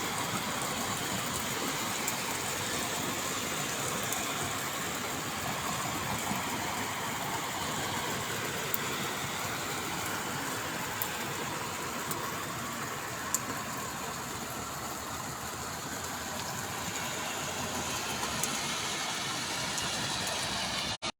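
Heavy rain falling in a steady hiss, with a few sharp ticks of drops striking close by; it cuts off suddenly near the end.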